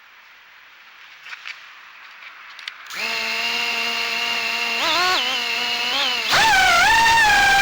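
A 3-inch FPV quadcopter's brushless motors (GEPRC 1206 4500kv spinning Gemfan 3028 props) arm about three seconds in and spin at idle with a steady whine, blipped briefly once. Just after six seconds they throttle up sharply to a much louder, higher whine that holds with small wavers. Before the motors start there are only a few faint clicks.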